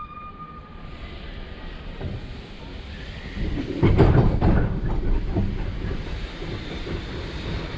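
Narrow-gauge steam train pulling away, heard from inside a carriage compartment: a steady rumble with hissing, growing louder about three and a half seconds in.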